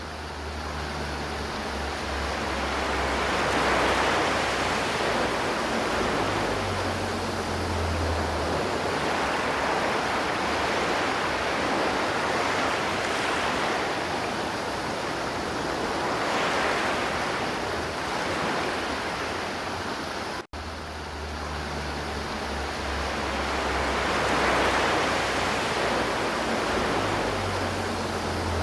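River water flowing: a steady rush that swells and eases every few seconds. It cuts out for an instant about twenty seconds in.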